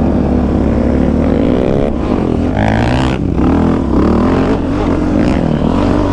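A quad (ATV) engine revving up and down repeatedly under hard riding, its pitch rising and falling several times.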